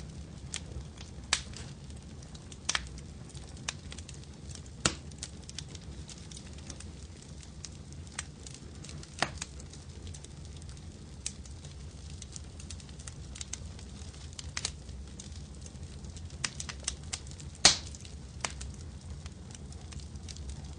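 Wood fire crackling in a fireplace: irregular sharp pops and snaps over a steady low rumble of the flames, with one loud pop about three quarters of the way in.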